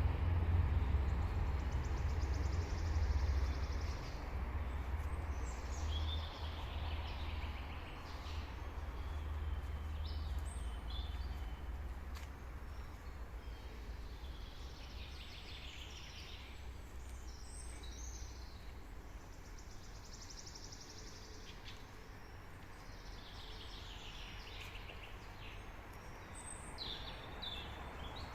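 Several songbirds singing and chirping in a forest, short phrases throughout. Under them a low rumble, strongest in the first few seconds, then fading.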